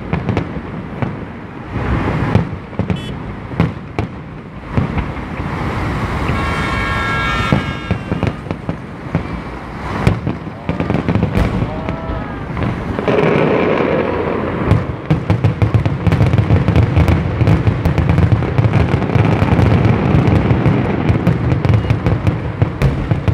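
Fireworks display: aerial shells bursting in sharp bangs and crackle. From about two-thirds of the way through, the bangs come thick and fast over a steady low rumble.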